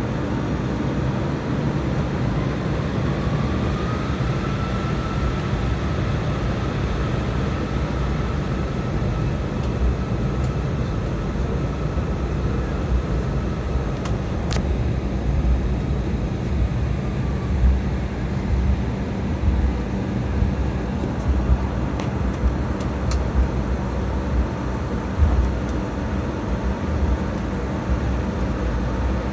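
Cabin noise of a jet airliner rolling on the ground: steady engine hum over the low rumble of the wheels, with occasional bumps. A thin engine whine rises slightly a few seconds in and fades out about halfway through.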